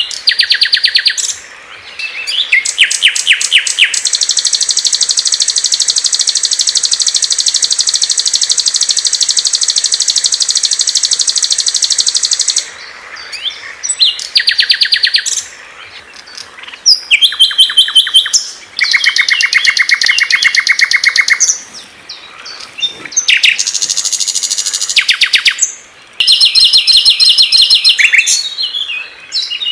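Small songbirds singing rapid, high trills of several different patterns. One trill runs steadily for about eight seconds, and shorter trilled phrases follow with brief pauses between them.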